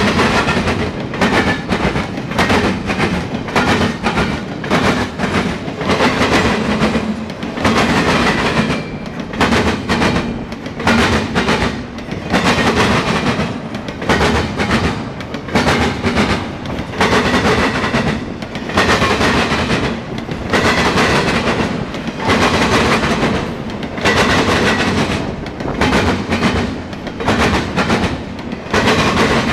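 Norfolk Southern double-stack intermodal freight train rolling past, its wheels clacking on the rails in a repeating rhythm. The clatter swells roughly every second or so as the well cars go by.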